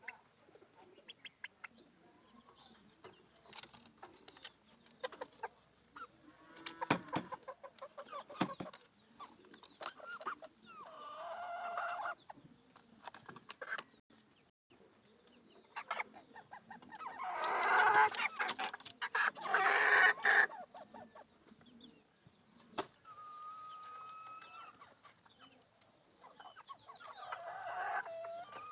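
Farm poultry calling: chickens clucking, among scattered calls from other fowl, with a loud bout of calling about two-thirds of the way through.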